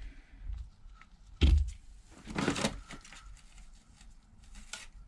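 Handling noises at a phone-repair bench: a heavy low thump about a second and a half in, then a short noisy swish, with light clicks scattered around them.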